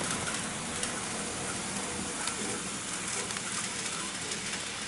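N-gauge model train running on the layout track: a steady hiss of motor and wheels with faint scattered clicks.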